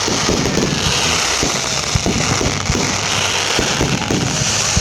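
Fireworks going off continuously: a dense, irregular run of low booms and pops over steady crackling.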